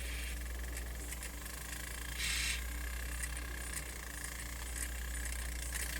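Sony MZ-N420D MiniDisc Walkman's disc mechanism faintly ticking and whirring as it keeps retrying to spin up and read the disc, with one brief louder rasp about two seconds in, over a low steady hum. The disc can't rotate properly, so the drive fails to read it.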